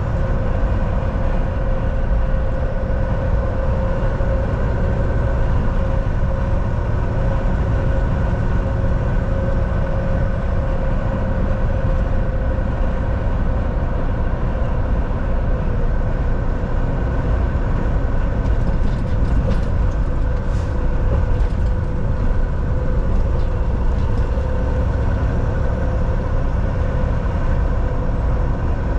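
Steady in-cab drone of a Volvo VNL 760 semi truck cruising: diesel engine hum with a few steady whining tones over a continuous rumble of road noise.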